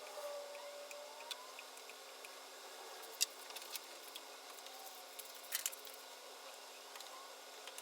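Scattered light clicks and taps, with a sharper click about three seconds in and a short cluster of clicks about five and a half seconds in.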